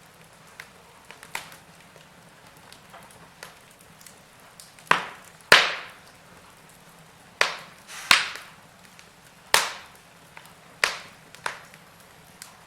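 Wood fire in a fireplace crackling over a faint steady hiss, with a run of loud sharp pops and snaps starting about five seconds in.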